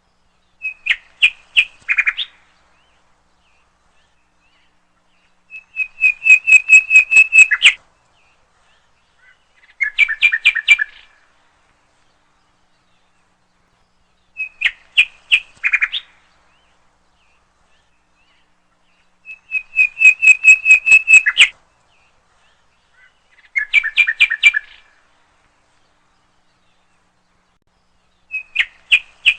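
A songbird singing short phrases of rapid, repeated notes, seven phrases a few seconds apart, with the same three phrase patterns coming back in turn.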